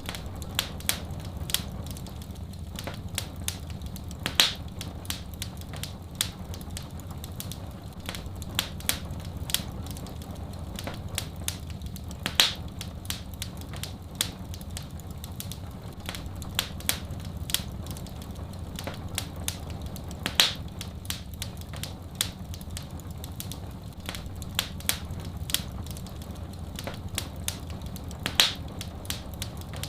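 Wood fire crackling in a fireplace: many small irregular snaps, with a louder pop about every eight seconds, over a steady low rumble.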